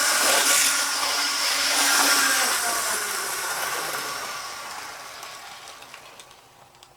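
Motor and flywheels of a first-generation Athearn model locomotive whirring, with its wheels running on the track as it coasts. The sound holds steady for a couple of seconds, then fades away as the locomotive slows to a stop.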